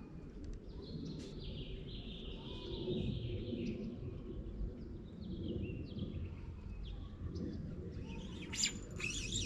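Small birds chirping and calling over a low, steady outdoor rumble.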